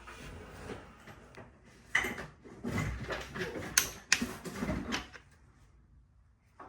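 Scattered clicks and light knocks of engine parts being handled, the sharpest about two and four seconds in, going quiet about five seconds in.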